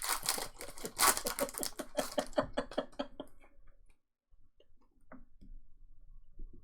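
Fast run of light clicks and rustles for about three seconds, falling almost silent, then a few faint taps near the end.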